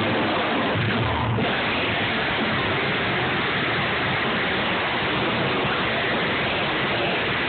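Loud live band music picked up by a phone microphone, overloaded into a dense, steady wash of noise with little clear tune or beat.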